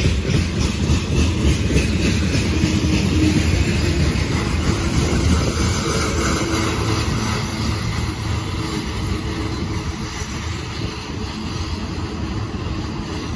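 Freight wagons rolling past on the rails: a steady heavy rumble with wheel clatter, easing a little after about eight seconds as the last wagon passes and the train draws away.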